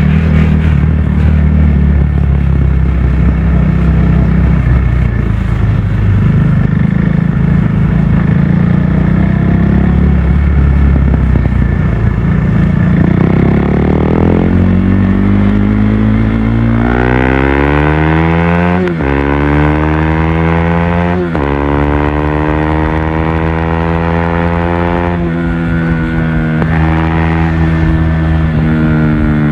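KTM RC 390's single-cylinder engine, Stage II tuned, running under a rider. For the first half it holds a steady drone mixed with rushing noise. Then it revs up, dropping sharply in pitch twice as it shifts up, and settles into a steady pull.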